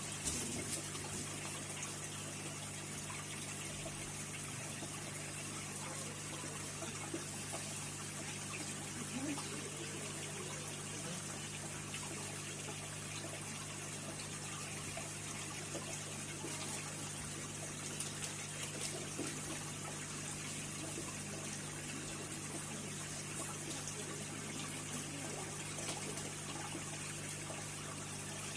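Aquarium water running steadily, with a steady low hum underneath.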